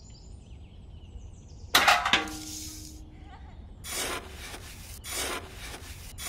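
A miniature metal trowel scraping and scooping fine sand in a few short gritty swishes, after a sharp clank about two seconds in.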